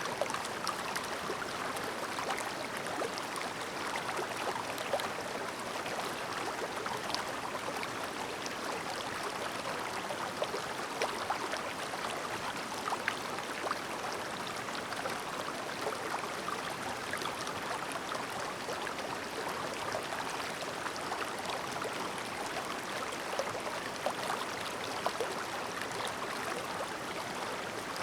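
Clear stream babbling: a steady rush of flowing water with small sharp splashes and drips scattered through it.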